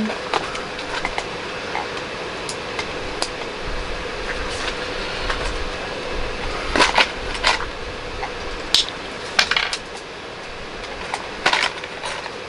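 Small plastic LEGO pieces clicking and clattering as they are sorted and pressed together, with scattered single clicks and a few short bursts of rattling, the loudest about a third, two-thirds and nine-tenths of the way through.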